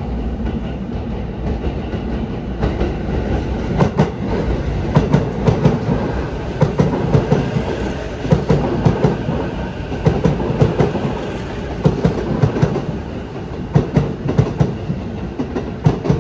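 Sotetsu 12000 series electric train passing close by at low speed, its motors and wheels rumbling steadily, with the wheels clicking in irregular groups over rail joints and points from about four seconds in.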